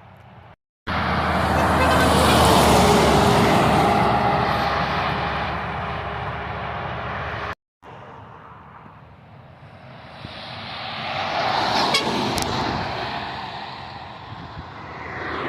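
Heavy trucks driving past in separate clips cut together. The first pass is the loudest, with a horn tone sounding through it as it goes by. A second vehicle swells up and fades away about ten to thirteen seconds in.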